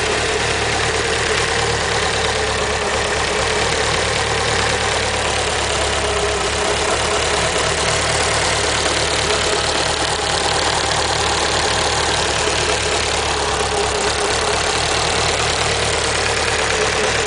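Engine idling steadily with a fast, even ticking, which the owner suspects is lifter tick.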